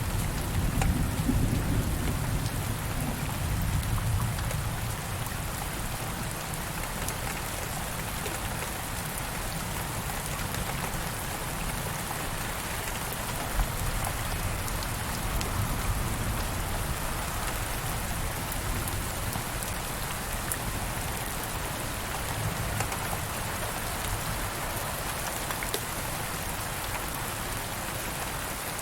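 Steady rain falling on a surface, with individual drops pattering. A low rumble of distant thunder fades out in the first few seconds.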